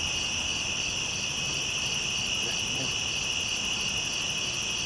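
Nighttime insect chorus of crickets: a steady, high-pitched trill.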